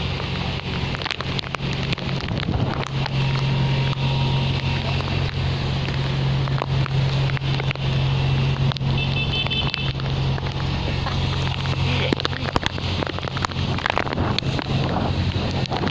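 Heavy typhoon rain falling, with a steady low engine hum running underneath and gusts of wind on the microphone.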